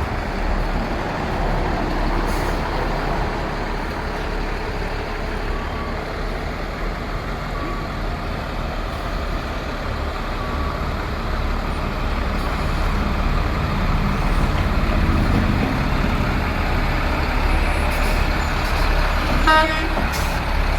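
Box truck engine running steadily as the truck manoeuvres slowly, with a brief high tooting tone near the end.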